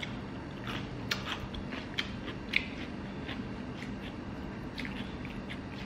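A person chewing crunchy food up close, a bite of raw cucumber, with short crisp crunches scattered through and the loudest about a second in and at two and a half seconds. A steady faint low hum runs underneath.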